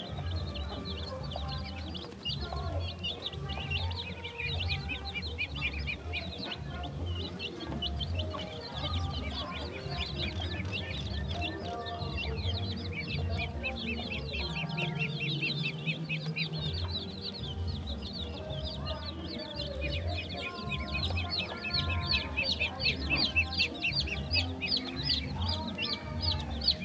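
Chickens clucking amid a constant chorus of rapid high peeping from young poultry, with background music and its steady low beat underneath.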